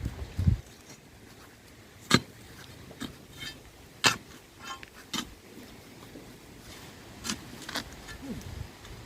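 A handful of sharp knocks at irregular intervals, about five in all, over a quiet outdoor background.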